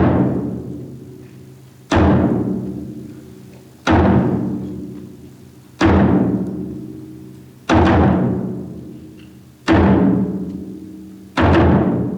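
Taiko drum struck in slow single strokes, about one every two seconds, each stroke ringing low and fading away before the next, six strokes in all.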